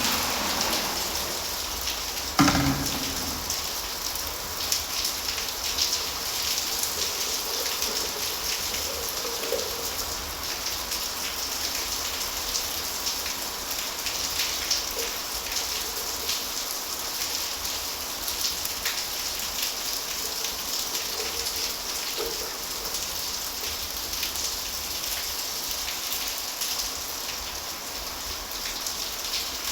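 Steady pattering, crackling noise made of many small ticks, with one heavy thump about two and a half seconds in.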